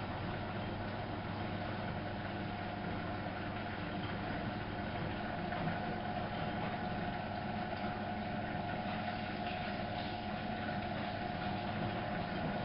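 Miele Novo Super W933 front-loading washing machine running, a steady mechanical hum with no change through the stretch.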